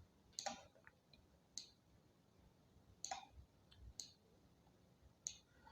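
Five single computer mouse clicks, spaced about a second apart, over faint room hiss.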